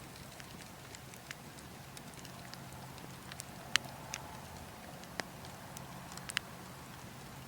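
Logs burning in a wood fire, crackling with scattered sharp pops over a steady bed of wind noise. The loudest pop comes a little before the middle.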